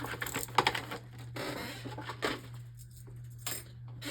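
Small plastic Beyblade parts being handled and set down: scattered light clicks and taps, with short bouts of rustling from the packaging.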